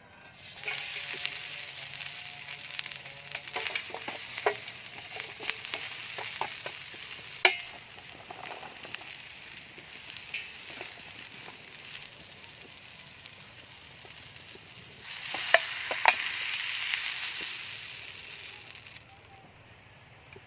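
Mushrooms frying in hot oil in a pan, sizzling, with clicks and scrapes of a utensil stirring them. The sizzle flares up sharply at the start and again about fifteen seconds in, then dies down near the end.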